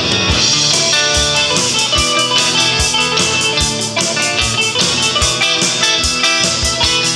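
Live band playing an instrumental break: guitar, mandolin and three-string cigar box guitar picking and strumming over a steady kick-drum beat, with no singing.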